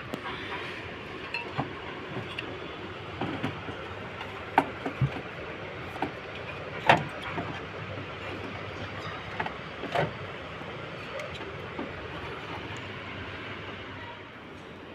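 Scattered clicks and knocks of a window air conditioner being taken apart by hand, over a steady background noise; the sharpest knocks come about seven and ten seconds in.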